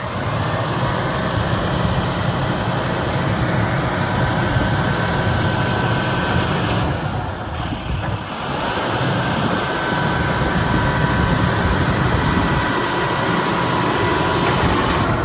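Bucket truck's diesel engine running with a steady hydraulic whine as the outriggers are operated. The whine stops briefly about halfway through, then resumes.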